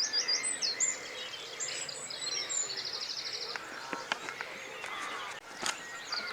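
Small songbirds singing and calling, several overlapping, with a fast trill of repeated high notes about three seconds in. A single sharp click near the end.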